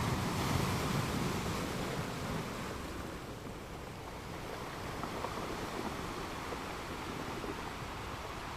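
Ocean waves washing on the shore, a steady rush that swells in the first couple of seconds and eases back.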